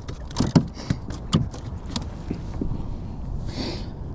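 Fishing gear being handled on a kayak: a quick run of sharp clicks and knocks in the first second and a half, then lighter ticks and a short hiss near the end, over a low wind rumble.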